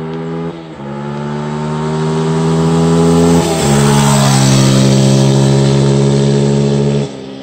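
Beta RR 125 LC 4T's 125 cc single-cylinder four-stroke engine under full throttle through a modified exhaust with its dB-killer fitted, accelerating hard. The pitch climbs, then drops sharply twice, about half a second in and about three and a half seconds in. It is loudest from about three seconds in and cuts off abruptly near the end.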